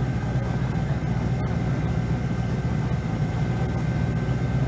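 Silver Chevrolet Camaro drag car's engine idling steadily at the starting line, a low, even rumble with no revving.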